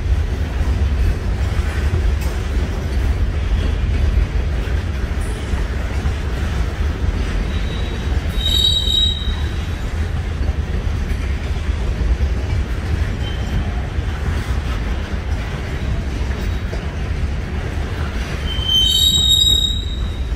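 Freight train of steel boxcars rolling past with a steady low rumble. The wheels give a high-pitched squeal twice: briefly about eight seconds in, and again, louder and longer, near the end.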